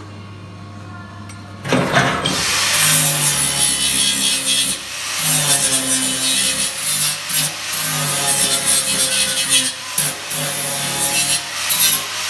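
A power tool starts up about a second and a half in and works on metal, most likely the sheet steel of a motorcycle fuel tank being cut or ground. It makes a loud, harsh scraping noise whose pitch shifts and briefly drops out as the load changes.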